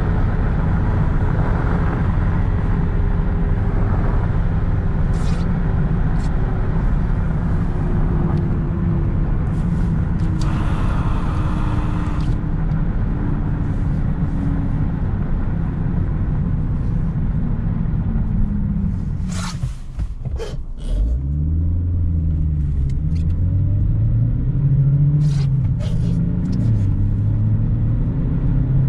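Mitsubishi Lancer's 1.6-litre 4G18 four-cylinder engine running over a steady road rumble. Its note falls slowly as the car slows, and a few clicks come about two-thirds through. The revs then climb and drop back several times as the car pulls away through the gears of its five-speed manual.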